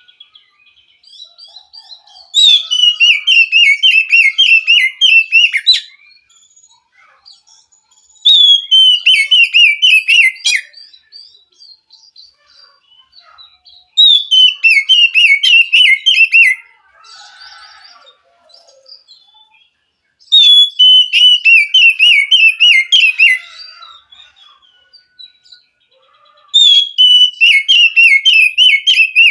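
Oriental magpie-robin singing: five loud phrases of rapid, repeated notes, each lasting about three seconds and coming about every six seconds, with faint scattered chirps in the gaps.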